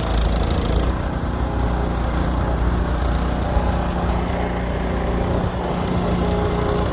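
Snowblower's small engine running steadily with an even low hum.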